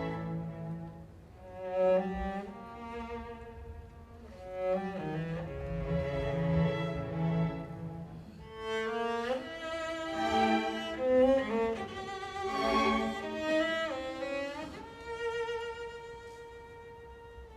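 Chamber string orchestra playing, with cello and violin lines to the fore; a few notes slide smoothly up or down into the next, around nine seconds in and again near fifteen seconds.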